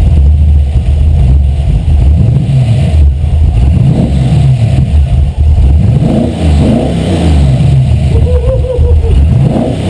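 Carbureted 5.0-litre V8 running while its ignition timing is set, revved a few times around the middle with the pitch rising and falling.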